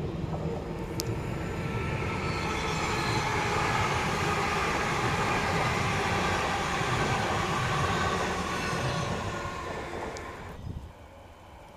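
Electric passenger train passing close by on the tracks, wheels running on rail with a high whine from its motors. It builds over the first couple of seconds, holds, then drops away sharply about a second before the end.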